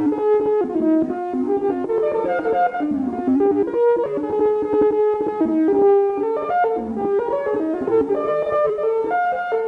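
Korg Volca Modular semi-modular synthesizer playing a continuous run of short pitched notes that jump between pitches every fraction of a second.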